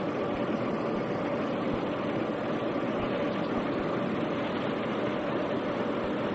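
Train running at steady speed: a constant rumble of wheels and running gear, with a faint steady hum over it.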